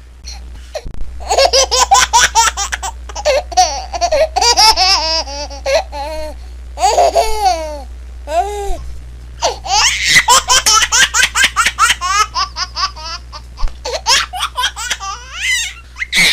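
A baby laughing in long fits of quick, high-pitched giggles, with a short break about six seconds in and a couple of drawn-out squealing laughs that fall in pitch just after it.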